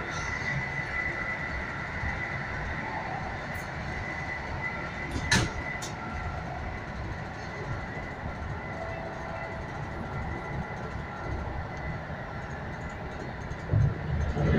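Cabin running noise of an EN57AL electric multiple unit under way: a steady rumble with a thin, steady high whine over it, and one sharp knock about five seconds in.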